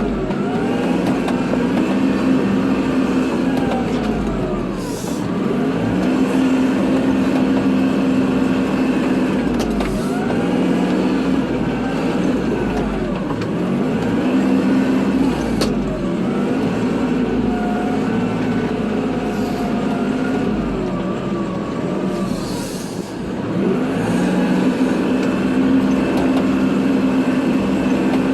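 Kubota tractor's diesel engine running steadily under load, with a higher whine that dips and rises in pitch every five or six seconds as the tractor works back and forth plowing snow.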